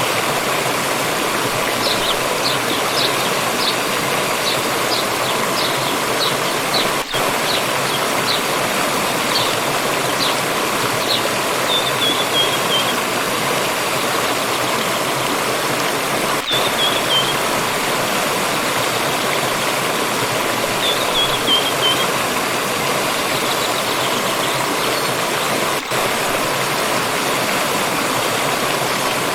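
A water stream running steadily. Over it a small bird chirps in a quick series through the first ten seconds, then gives three short falling trills spread across the rest.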